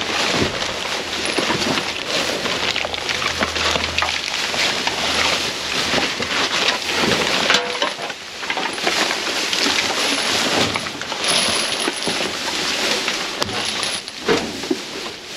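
Trash being rummaged through in a dumpster: packaging and boxes rustling and crinkling, with many small knocks and clinks as items are shifted.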